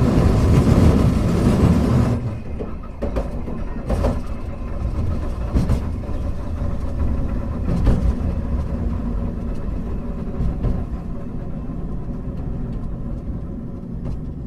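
Hankai Tramway tram car 351 running along the rails: a steady low rumble of wheels and motors with a few sharp clicks and knocks. It is loudest in the first two seconds and eases off toward the end.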